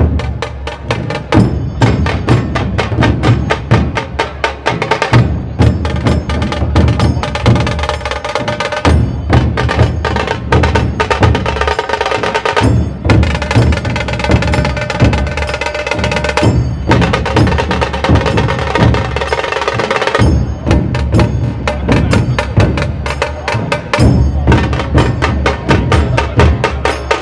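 Dhol tasha ensemble drumming: deep double-headed dhol drums under rapid, sharp tasha strokes in a loud, driving rhythm, with brief breaks every few seconds.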